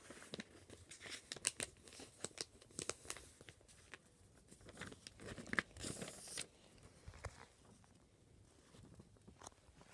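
A sheet of paper being folded in half and creased, with crinkling and short sharp crackles, most of them in the first few seconds and a longer rustle about midway.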